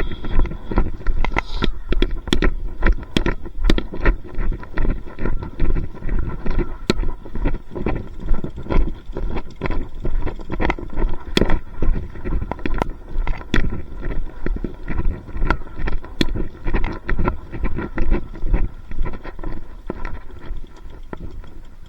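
Footsteps walking at about two steps a second, with sharp clicks over a constant low rumble.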